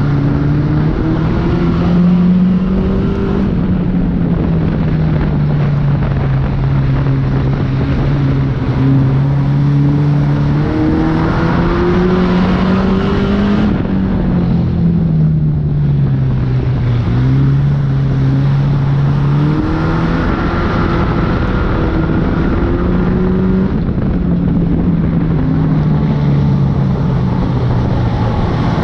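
Banger racing car's engine heard from inside its stripped-out cabin, revving up and down as it laps, over loud road and wind noise. The engine note rises and falls several times and eases off briefly about halfway through.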